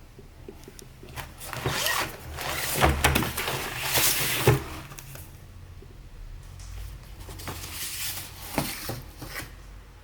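Rustling and clattering with scattered sharp knocks, the loudest about four and a half seconds in and another near the end.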